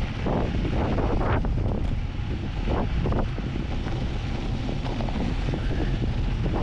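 Wind buffeting the microphone during a fast downhill mountain-bike ride, with irregular bumps and rattles over the rough track.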